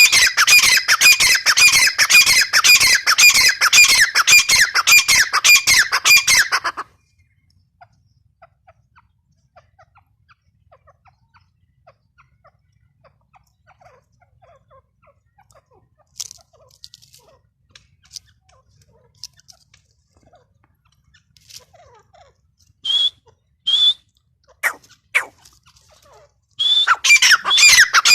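Grey francolin calling: a loud, fast run of harsh repeated notes stops about seven seconds in. After a long lull with faint scattered notes and a few single calls, the rapid calling starts again near the end.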